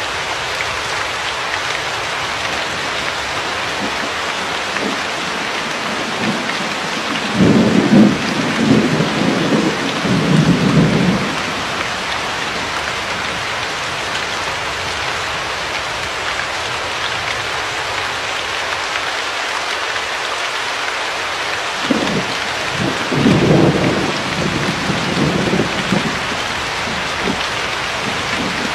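Steady heavy rain falling, with two rolls of thunder, one lasting about four seconds a quarter of the way in and another about two-thirds of the way in.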